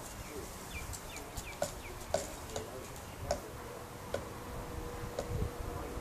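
A bird attacking a car's side mirror, striking it in about six sharp, irregularly spaced taps. A few short falling chirps sound near the start.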